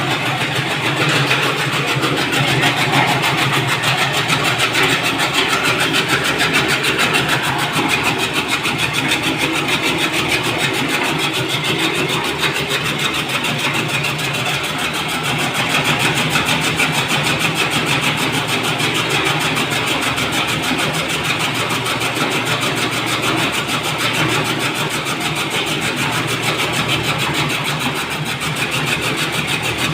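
Motor-driven chaff cutter running steadily, a loud, even mechanical noise without pause.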